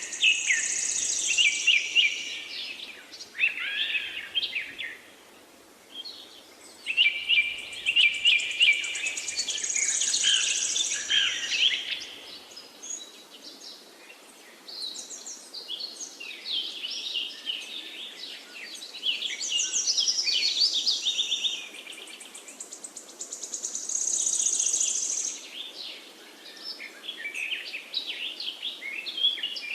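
Songbirds singing: bouts of quick high-pitched chirps and trills lasting a few seconds each, several phrases overlapping, with short pauses between bouts over a faint steady background hiss.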